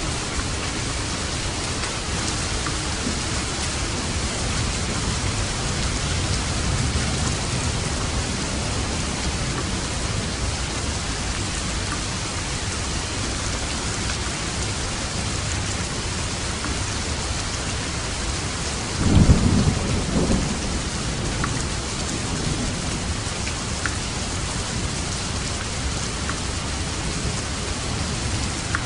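Steady heavy rain falling on a roof, with thunder: a low rumble swells and fades in the first third, then a closer, louder clap of thunder about two-thirds of the way through.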